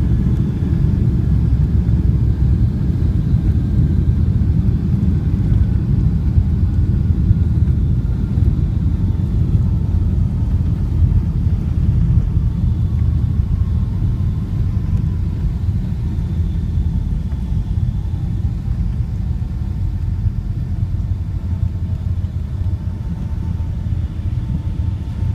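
Boeing 757-300 cabin noise on the landing rollout: a steady, loud low rumble with faint whines slowly falling in pitch, easing off slightly toward the end.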